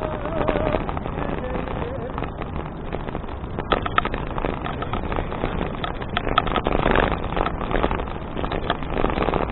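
Riding noise of a touring bicycle picked up by an action camera: steady wind buffeting on the microphone and tyre rumble, with scattered clicks and rattles from the bike.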